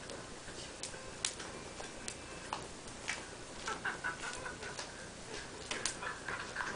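Driftwood fire crackling, with scattered sharp pops and a busier patch of crackling in the second half.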